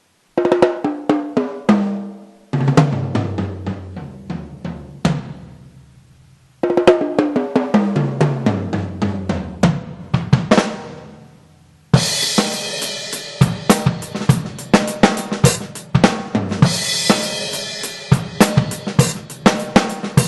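Electronic drum kit playing sampled acoustic drums from a 2Box module, on a roomy preset. Two long tom runs step down in pitch from the high toms to the floor toms, then about twelve seconds in a full-kit groove starts, with bass drum, snare and crashing cymbals.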